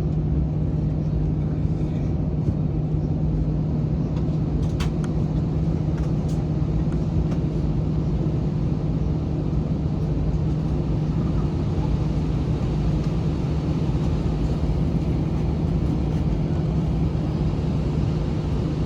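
Steady cabin noise inside an Airbus A321 on the ground: a constant low hum over a rumble from the running aircraft, with a couple of faint clicks about five and six seconds in.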